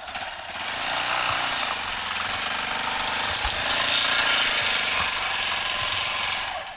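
Dirt bike engine revving hard, its revs rising and falling, loudest about four seconds in and dropping away near the end.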